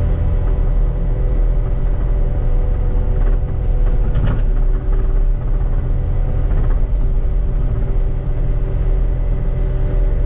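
Caterpillar 289D3 compact track loader's diesel engine and hydraulic brush cutter running steadily under load, with a deep rumble and a steady hum. A short clatter breaks through about four seconds in.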